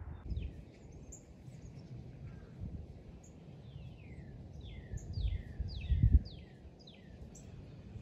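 Small bird chirping: a quick run of short, high chirps that slide downward in pitch, thickest in the second half. Underneath is a low rumble, with a couple of louder low thumps about five and six seconds in.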